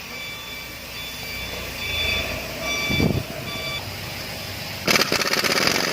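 Vehicle reversing beeper sounding about twice a second over a low rumble, then a loud rattling noise during the last second.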